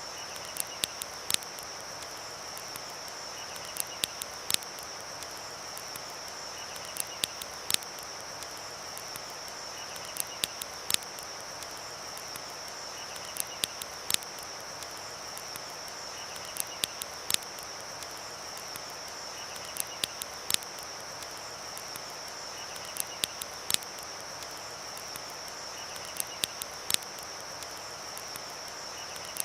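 Campfire crackling, with sharp pops in small clusters about every three seconds, over a steady high insect drone and the even rush of a river.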